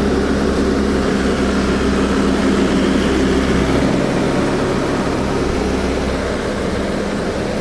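Heavy diesel engine running steadily under load. Its deepest rumble drops away about four seconds in.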